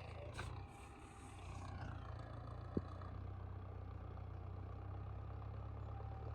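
Combine harvester engine running steadily with a low, even hum. A single sharp click comes just before three seconds in.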